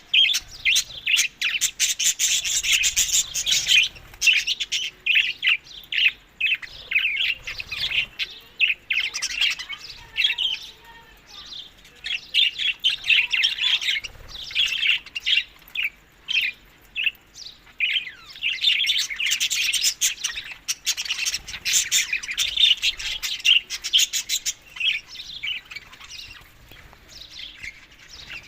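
Budgerigars chirping and warbling, a dense chatter of rapid high chirps that swells and fades in bursts.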